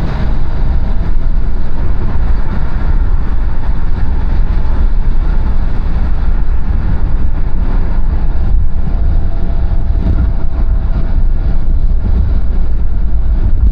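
Car driving along a road at speed: a steady, loud, low rumble of road and engine noise with no breaks.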